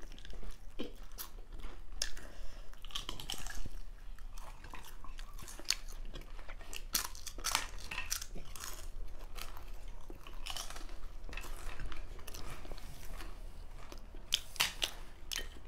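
Close-up mukbang eating sounds: a person biting and chewing crunchy food, with irregular crisp crunches throughout.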